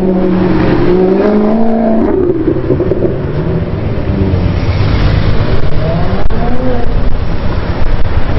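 Car engine running loudly, its pitch rising and falling as it is revved, over a steady low rumble.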